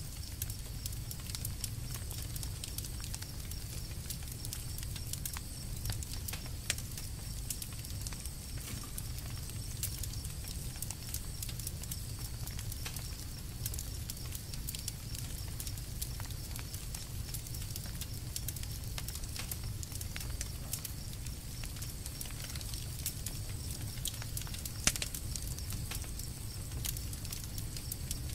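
Campfire burning: wood crackling with frequent small snaps over a low steady rumble, with a louder pop about 25 seconds in.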